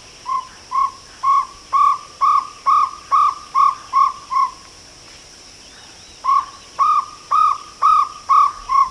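Jungle owlet (barred jungle owlet) calling: a run of about ten short, rise-and-fall hooting notes at roughly two a second that grows louder, a pause of nearly two seconds, then a second run of about six notes.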